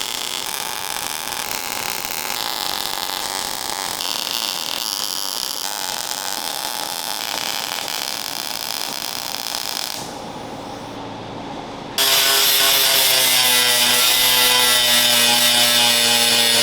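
Metal fabrication power-tool work: a long stretch of steady hissing noise, then after a short quieter pause an angle grinder starts about twelve seconds in and grinds steel, its motor whine loud over the grinding rasp.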